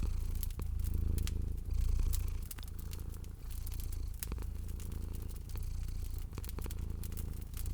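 Domestic cat purring, a low rumble that swells and eases with each breath, with a fire crackling over it in frequent sharp pops.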